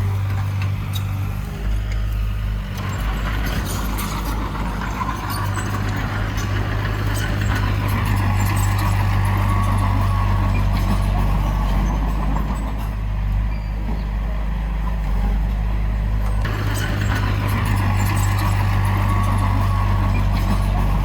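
Heavy diesel engine of earthmoving machinery running steadily with a deep low drone. Its load shifts a few times, around 3, 8 and 16 seconds in.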